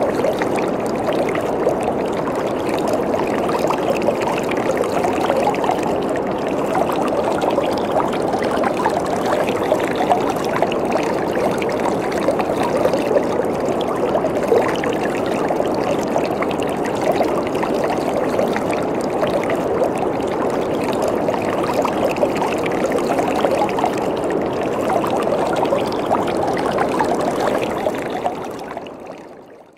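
Waterfall: water falling and splashing in a steady rush, fading out near the end.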